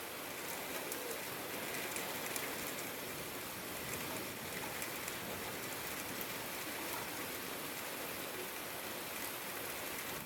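Steady rain falling, with many small drops tapping.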